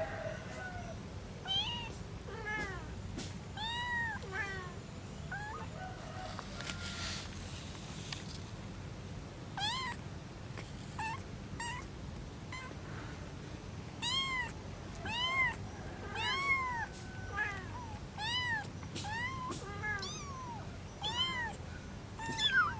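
Kittens mewing over and over: many short, high-pitched mews, each rising and falling in pitch, over a low background hum.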